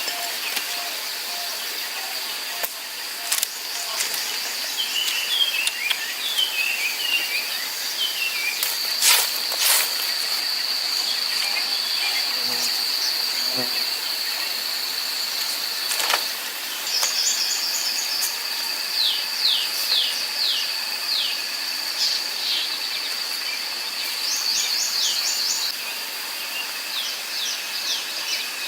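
Outdoor nature ambience: a steady high-pitched insect trill with birds chirping in short repeated series, and a few sharp knocks.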